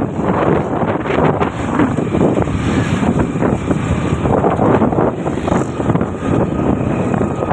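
Wind buffeting the microphone on a moving motorbike, with the bike's and the road's noise underneath; a loud, unsteady rush.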